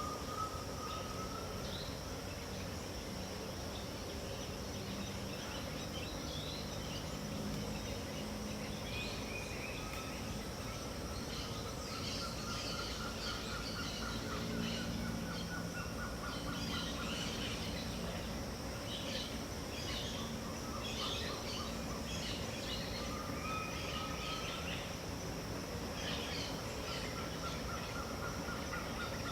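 Dawn chorus of several birds: repeated pulsed trills and scattered bursts of higher chirps, busiest mid-way, over a steady high-pitched insect drone.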